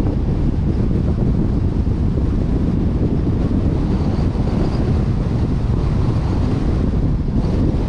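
Steady wind rush buffeting the microphone of a vehicle-mounted action camera while driving, over a constant low rumble of road and engine noise.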